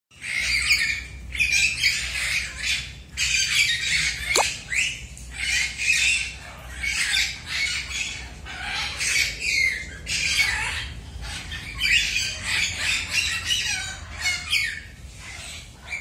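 Many caged aviary birds squawking and chirping in a dense, continuous chorus of harsh calls, with one quick rising whistle a little after four seconds in.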